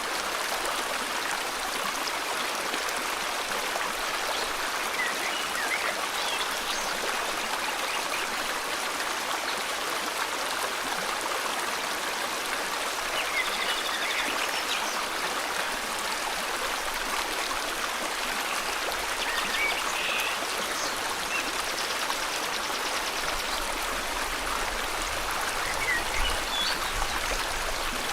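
River water flowing, a steady even rush, with birds chirping faintly now and then over it.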